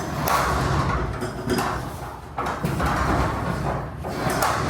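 Sectional garage door rolling along its tracks on its rollers, a rumbling run that comes in several surges with small clicks and rattles.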